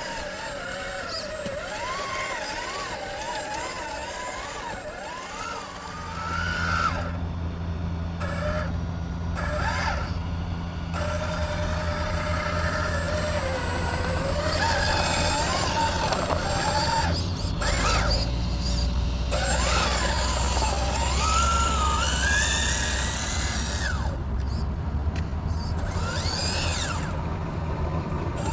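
RC crawler's small electric motor and gearbox whining, the pitch rising and falling with the throttle. A steady low hum joins about six seconds in.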